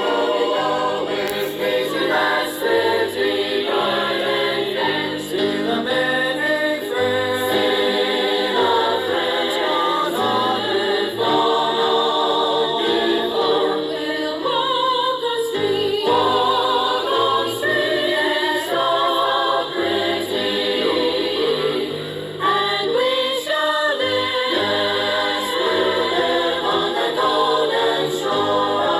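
Choir singing a gospel song in parts, the voices moving together from note to note without a break.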